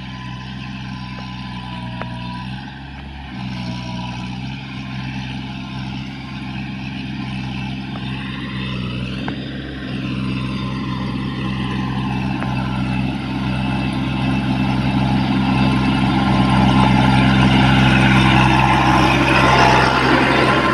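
Kubota A211N 21 hp four-wheel-drive compact tractor's diesel engine running steadily as the tractor drives, growing gradually louder over the second half.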